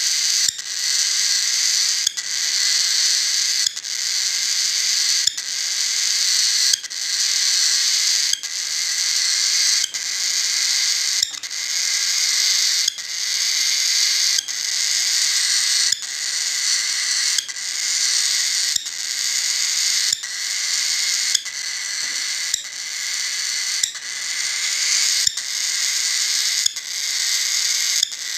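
Cockatiel giving a continuous raspy, hissing call, broken by a short pause about every second and a half.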